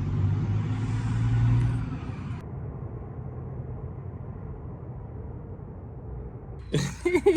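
Motor vehicle engine running steadily with a low rumble, its pitch rising slightly over the first couple of seconds; a little over two seconds in the sound cuts abruptly to a duller, steady rumble.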